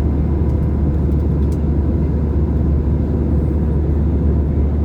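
Steady cabin rumble of an Airbus A320 climbing after takeoff: its two CFM56-5B engines at climb power and the airflow over the fuselage, heard from a window seat, with a faint steady whine over the low roar.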